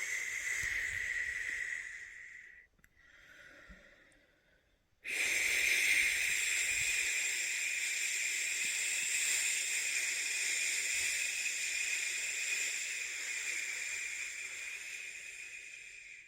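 A person making a long 'shhh' shushing sound, the shush of the shush-pat method for lulling a newborn to sleep. One shush fades out two to three seconds in and is followed by a short pause for breath. A new long shush starts suddenly about five seconds in and slowly fades toward the end.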